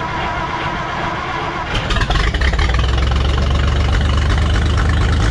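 Minneapolis-Moline tractor's gasoline engine being started: a steady whine from the cranking starter, then the engine catches about two seconds in and runs with a low, steady rumble.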